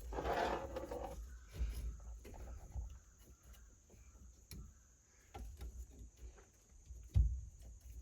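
Hand-work noises on a steering column: scattered light clicks and rustles of small parts and tools being handled. A short noisy scrape starts it off, and there is a sharper knock about seven seconds in.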